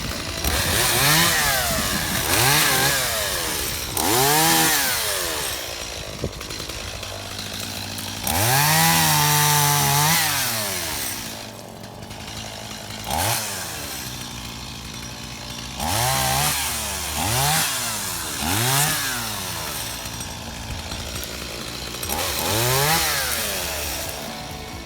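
Stihl two-stroke chainsaw idling and revved up about nine times, each rev rising and falling back to idle, one held for about two seconds near the middle.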